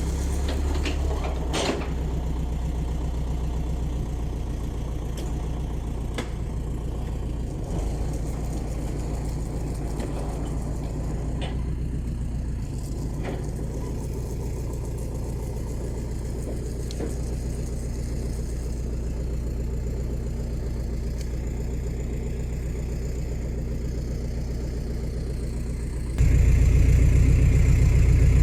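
An engine idling steadily with a low, even hum, with a few faint clicks over it. Near the end the engine sound suddenly gets louder.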